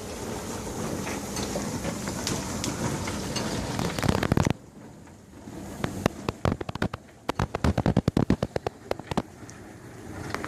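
GE dishwasher running: a steady rush of water spray that cuts off about four and a half seconds in, followed by a string of irregular sharp clicks and knocks, with the spray rushing again near the end.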